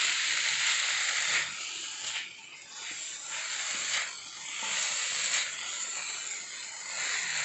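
Chicken seekh kebabs sizzling on a large tawa as they crisp. A steady frying hiss that is loudest in the first second and a half, then dips and swells.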